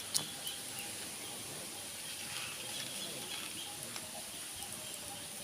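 Quiet outdoor background among pigeons: a steady high hiss with faint scattered rustles and ticks, and a sharp click just after the start.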